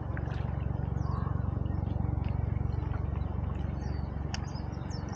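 Birds chirping, short high calls scattered through, coming more often near the end, over a steady low rumble.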